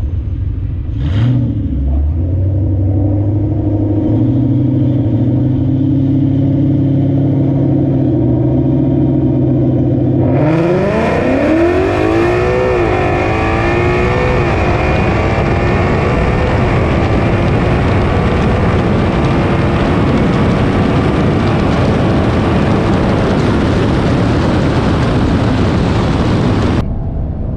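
Ford Mustang GT's 5.0 V8 with full exhaust, held at a steady raised idle on the line, then launching about ten seconds in for a full-throttle quarter-mile pass. The pitch climbs and drops back in quick steps as the 10-speed automatic upshifts. The loud full-throttle noise cuts off suddenly near the end.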